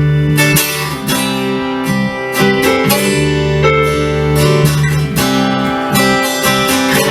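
Acoustic guitar strummed in an instrumental break, chords struck in a steady rhythm with no singing.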